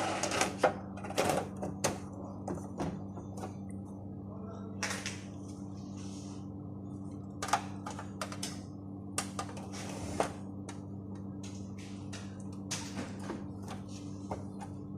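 Irregular light clicks and taps of small hard objects being handled, over a steady electrical hum.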